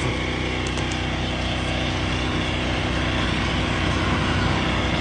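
An engine running steadily at idle: a constant low drone with an even hum.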